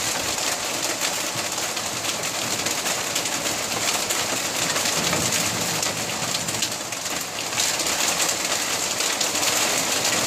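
Heavy rain mixed with hail pelting down, a dense steady hiss made of countless small impacts.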